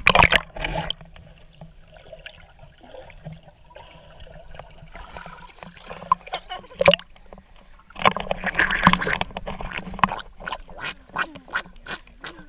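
Water splashing and gurgling close to the microphone, with loud sudden splashes at the start and again about eight seconds in, and quick spattering ticks near the end.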